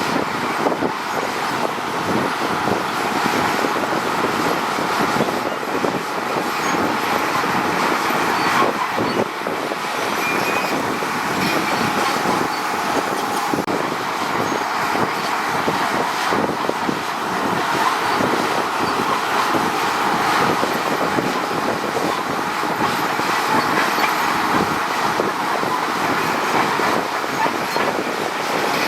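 Crawler bulldozer working, its diesel engine running steadily under a continuous clanking rattle of steel tracks.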